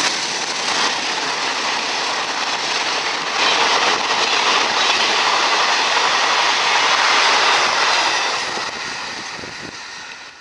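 A train passing close by at speed, its wheels clattering over the rails, the noise dying away over the last couple of seconds.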